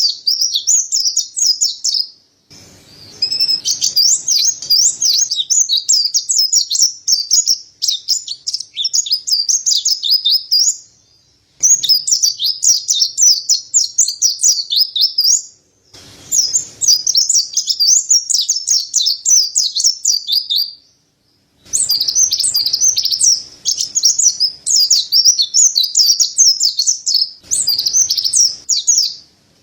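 Mountain white-eye (white-breasted pleci) singing a rapid, high twittering song. It comes in runs of several seconds with a few short breaks between them.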